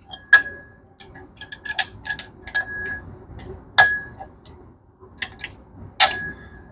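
Steel engine parts clinking against each other while being handled and fitted, the louder knocks leaving a short, clear metallic ring. Three knocks stand out, about a second in, near the middle and near the end.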